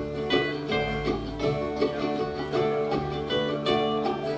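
Live bluegrass band playing an instrumental passage between sung lines: picked acoustic guitar, banjo and mandolin over a steady bass.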